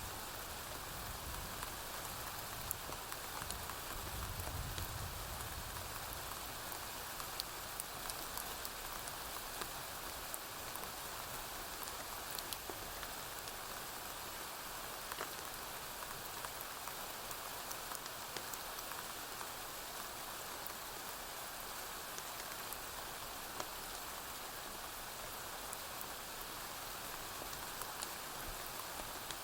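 Steady rain falling on a roof, with scattered small pops and clicks. A low, distant thunder rumble swells in the first few seconds, strongest about four to five seconds in, then fades.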